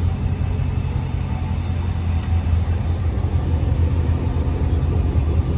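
Dodge Charger 392 Daytona's 6.4-litre HEMI V8 idling with a steady low rumble through its now straight-piped exhaust, the mid mufflers and resonators deleted and only the cats left.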